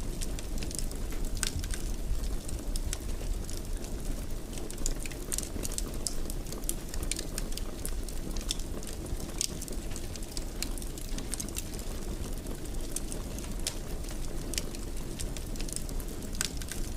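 Wood fire crackling in a fireplace: a steady low rumble with irregular sharp pops and crackles.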